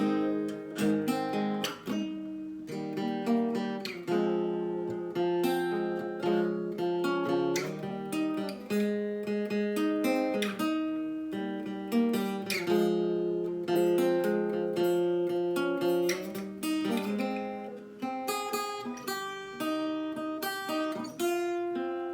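Acoustic guitar strumming and picking a chord progression in A-flat: A♭, E♭, F minor, D♭, the chords struck and left ringing over and over.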